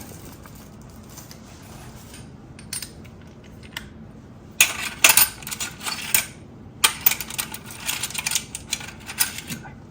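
Small metal tools and bits clinking and rattling as they are rummaged through: a few single ticks, then two spells of rapid clicking, the first starting about halfway in and the second lasting until near the end.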